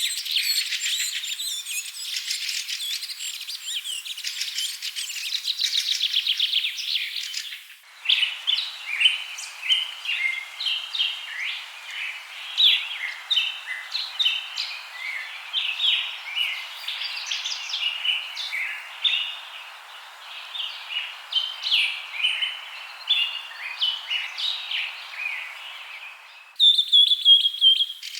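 Songbirds chirping and singing. A dense chatter of fast calls gives way abruptly, about eight seconds in, to many birds' short chirps overlapping. Near the end this switches to a rapid trill.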